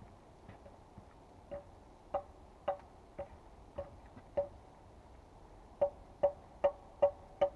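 Repeated strikes of a tool on wood, about two a second, each with a short ringing note. They start faint, pause briefly, then come back louder.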